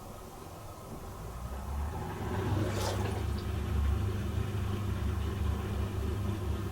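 Bosch Serie 4 SMS46MW05G dishwasher's pump running with a low mains hum, building up over the first two seconds, with a brief hiss of water about three seconds in. The hum cuts off suddenly near the end.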